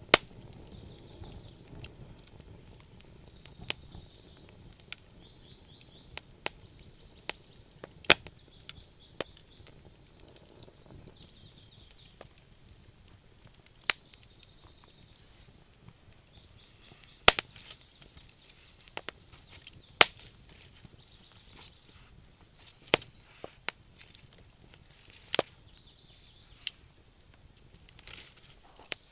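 Wood fire burning in a stove, crackling with sharp, irregular pops a second or two apart, some much louder than others, over a faint intermittent hiss.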